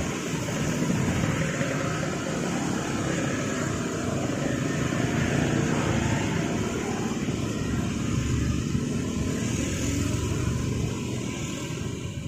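Steady engine and rolling noise of vehicles passing at a railway level crossing, with no sharp horn or bell standing out.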